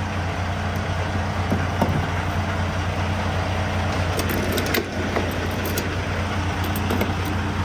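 Semi-truck diesel engine idling steadily with a strong low hum, with a few short clicks and knocks over it, mostly in the middle and near the end.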